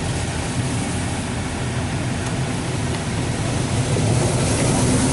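High-pressure rinse jets of a Washworld Razor touchless car wash spraying against the car, heard from inside the cabin: a steady hiss with a low hum underneath.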